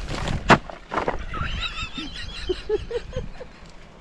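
An animal call: a wavering high call followed by a series of short, lower rising calls, with a sharp knock just before it.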